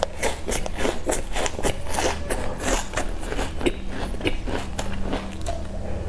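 Close-up crunchy chewing of a crisp sesame-coated baked biscuit: a quick run of crackly crunches that thins out after about three and a half seconds.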